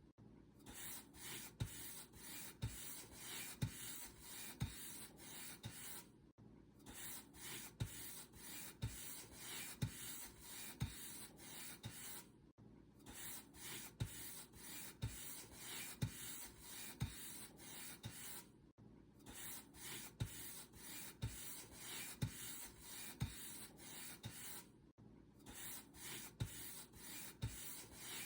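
Paint brush bristles brushed back and forth across a surface, in a steady rhythm of about one stroke a second, each stroke with a short low tap. Brief gaps come about every six seconds.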